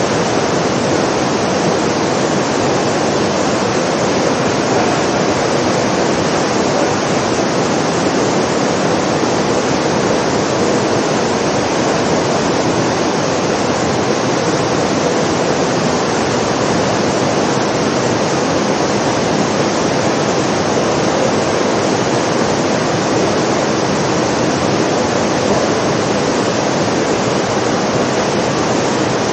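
Artificial rain of the Rain Room installation pouring steadily onto the floor: a constant, even hiss of falling water with no breaks.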